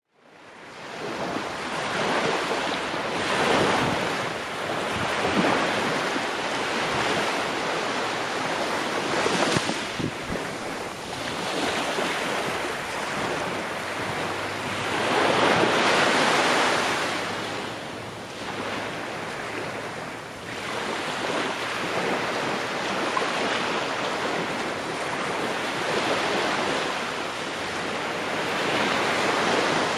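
Ocean waves breaking and washing on the shore, a steady rush of surf that swells and ebbs every few seconds. It fades in at the start.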